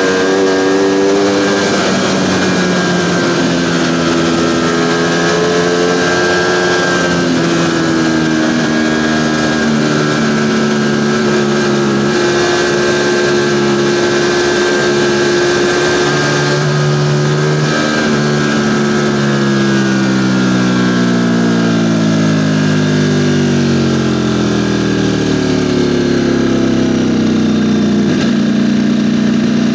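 Ducati Panigale V4's 90-degree V4 engine running under way, its note holding roughly steady, then falling in pitch over several seconds past the middle as the bike slows, and levelling out near the end.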